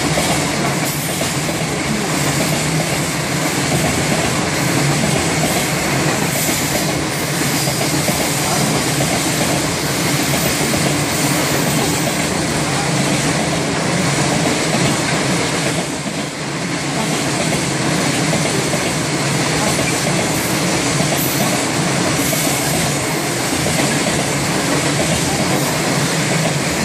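Fully loaded freight train's wagons rolling past, a steady loud rumble of wheels on the rails with clattering over the rail joints, dipping briefly about two thirds of the way through.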